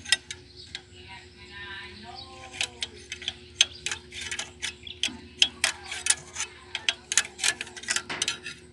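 Irregular sharp metallic clicks and clinks of hand tools working on the engine's injector fuel-line fittings, a few to several a second.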